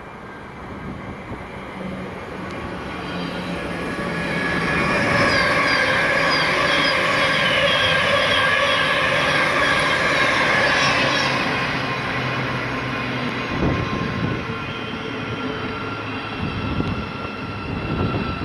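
Thameslink electric multiple unit running along the station platform. It grows louder as it approaches, is loudest for several seconds in the middle with a high whine of several steady tones, then eases off, with a few sharp knocks near the end.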